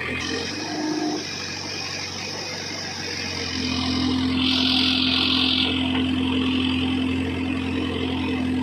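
Heavy diesel engine running steadily, then rising under load about three and a half seconds in, with a brief high whine over it around the middle.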